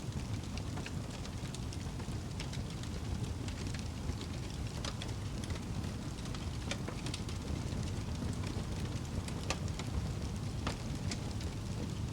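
Wood fire burning in a fireplace: a steady low rumble of the flames with irregular sharp crackles and pops of burning logs.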